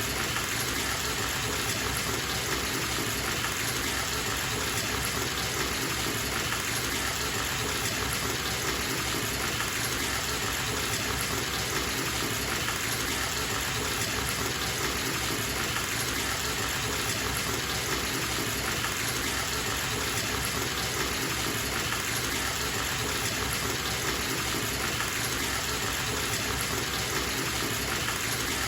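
Bathtub tap running full, water gushing steadily into the tub as it fills.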